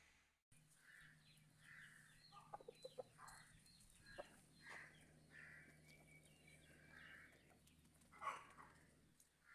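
Chickens clucking faintly, many short calls overlapping, with one louder call near the end.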